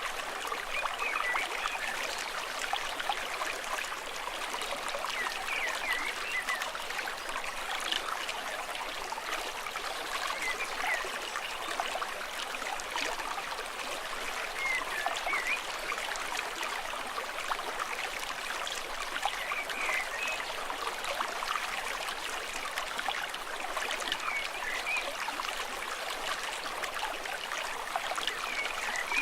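Stream water babbling and trickling steadily, with short high chirps every few seconds.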